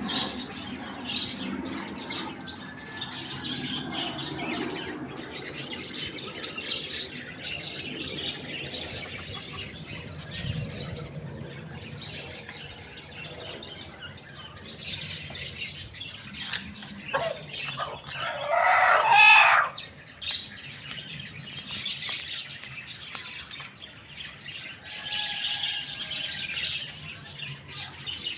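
Small birds chirping and twittering throughout, with one loud squawking call of just over a second about two-thirds of the way through.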